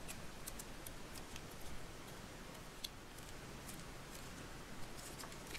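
Faint, scattered small clicks and taps of hands handling a plastic cookie mould while pressing Play-Doh into it, over quiet room tone.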